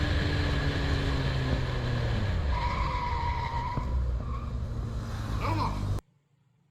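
Car engine running with its pitch falling, then a high squeal for about a second and a half, about two and a half seconds in. The sound cuts off abruptly near the end.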